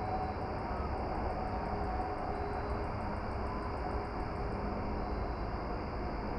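Steady outdoor background noise at dusk, heaviest in the low rumble, with faint steady hums. A faint, fast, high ticking runs through it and stops about four and a half seconds in.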